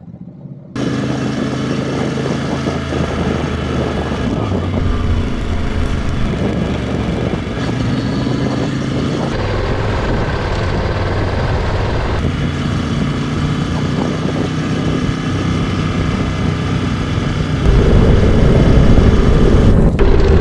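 Adventure motorcycles being ridden, their engines running under way with wind and road noise. The sound changes abruptly several times as shots are cut together, and is loudest near the end.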